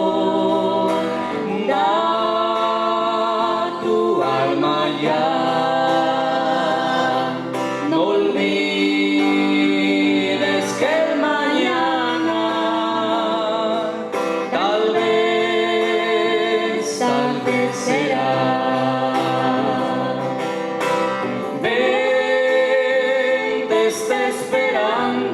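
Spanish-language Christian worship song being sung, with sustained wavering sung notes in phrases separated by short breaks.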